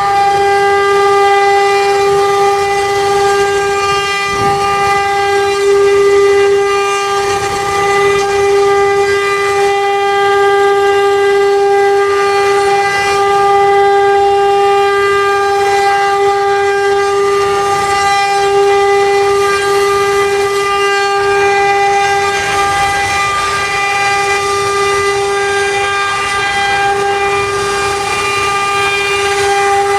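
CNC wood-engraving router spindle running with a steady, unbroken high whine, over the hiss of the bit cutting wood.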